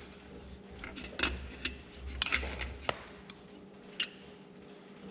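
Metal tools and steel engine parts clinking and knocking as they are handled, with about half a dozen separate sharp clinks.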